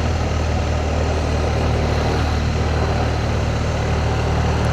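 Motorcycle engine running at a steady pitch, with a constant rush of wind and road noise.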